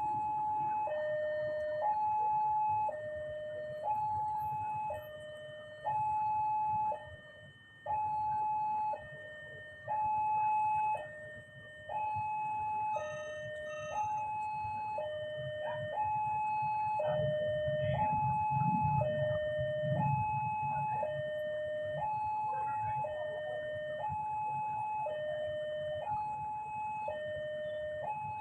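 Railway level-crossing warning alarm sounding a steady alternating high-low two-tone, each tone about a second long. A low rumble swells briefly about two-thirds of the way through.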